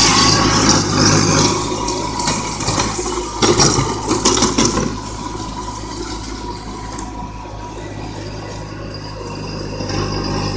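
Small tractor engine running steadily with a low hum, mixed with a rushing noise that is louder in the first half, and a few sharp knocks a few seconds in.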